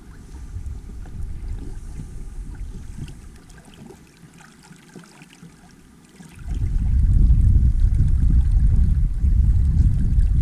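Wind buffeting the microphone aboard a small sailing inflatable boat, with water lapping and trickling along the hull. The wind gusts, eases off for a couple of seconds, then comes back much louder about six and a half seconds in.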